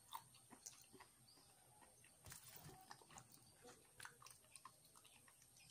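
Faint, scattered chewing clicks and mouth sounds of people eating sea grapes (lato) by hand.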